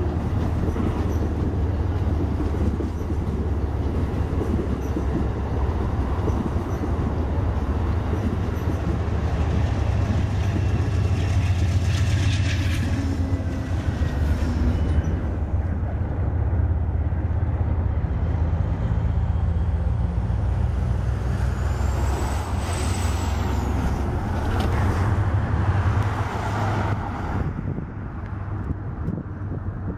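Amtrak passenger train of double-deck Superliner cars passing close below, its GE Genesis P42 diesel locomotive's engine making a steady low rumble. About two-thirds of the way through a brief high-pitched squeal rises and falls, and the sound drops somewhat near the end.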